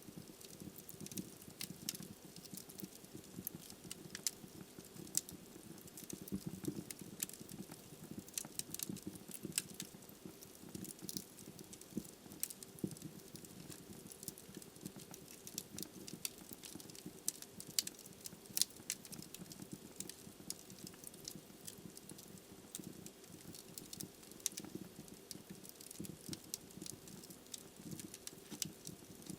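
Log fire in a fireplace crackling, with frequent sharp irregular pops and snaps over a steady low rumble of the flames.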